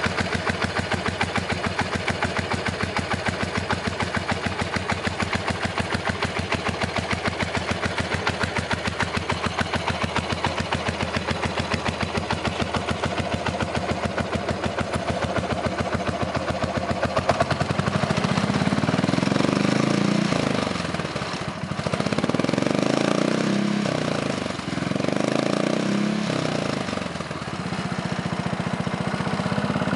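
2001 Buell Blast's single-cylinder four-stroke engine idling with distinct, evenly spaced firing pulses, then revved up and held higher from about 17 seconds in, the throttle dropping back briefly three times before rising again.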